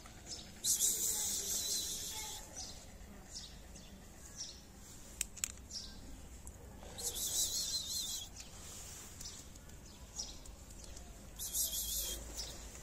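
Small birds chirping and twittering in three bursts, near the start, in the middle and near the end, with two faint clicks in between.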